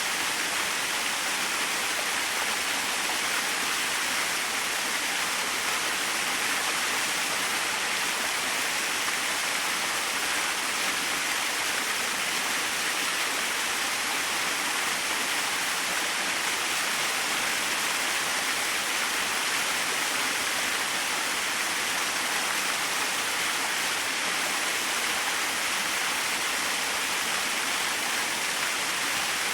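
Small waterfall: water falling and splashing in a steady, unchanging rush.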